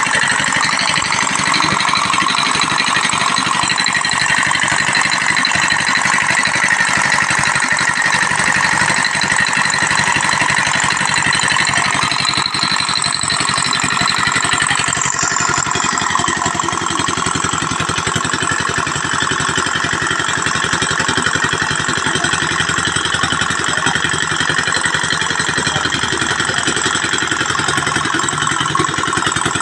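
Engine-driven palm fruit pressing machine running steadily, a continuous mechanical noise with a slight change in tone about halfway through.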